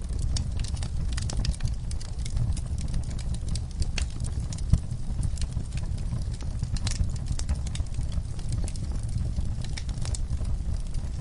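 Wood fire burning in a fire pit, logs and coals crackling with irregular sharp pops, the loudest about halfway through, over a steady low rumble of the flames.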